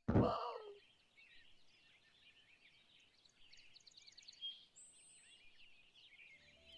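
A brief loud sound right at the start that falls in pitch and fades within a second, then faint birdsong: small birds chirping and twittering, with a quick rattling trill near the middle and a high whistle soon after.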